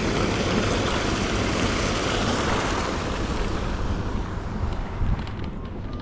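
Steady rush of falling seawater from a harbour seawater waterfall; the hiss fades after about four seconds. Wind buffets the microphone throughout.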